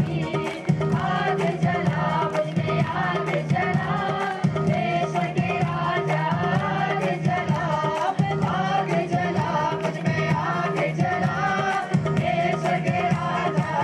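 Hindi Christian worship song, sung over music with a hand drum keeping a quick, steady beat.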